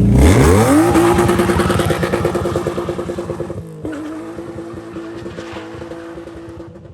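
Car engine revving up as the car pulls away: the revs climb quickly, then hold steady, with a brief dip about three and a half seconds in. The sound fades steadily as the car moves off.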